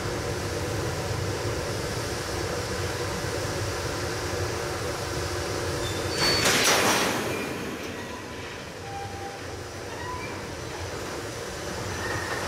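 EH200 electric locomotive and its oil tank wagons starting away slowly, with a steady machinery hum. About six seconds in comes a loud hiss of air lasting about a second, and after it a few short faint squeaks.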